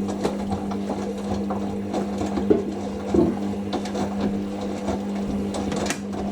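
Hoover SIX Inter@ct AAA Whisper 1600 washing machine running its final rinse: a steady hum with scattered soft knocks and clicks from the drum and laundry.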